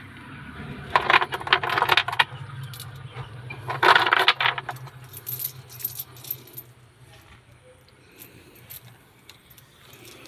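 Metal clinking and rattling in two dense bursts, about a second in and again around four seconds, then lighter scattered clicks, from tools and metal parts being handled while removing a washing-machine pulsator.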